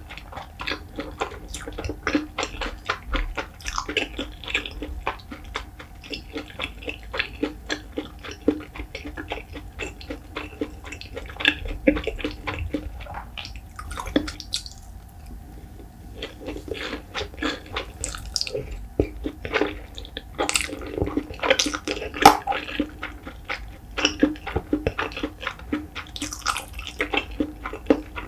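Close-miked mouth chewing white rice and salted pollock roe: dense, quick clicks and smacks, with a short pause about halfway through.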